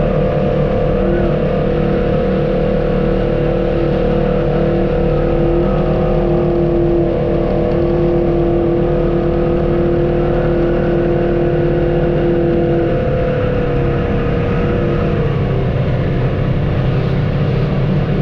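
Off-road vehicle's engine running at a steady pitch, with a held whine that fades out a few seconds before the end.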